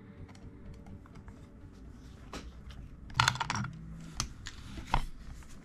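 Small clicks and taps of a Phillips screwdriver working screws out from inside the plastic pistol grip of an airsoft shotgun. The clicks are faint at first, with several louder ones in the second half, including a short cluster.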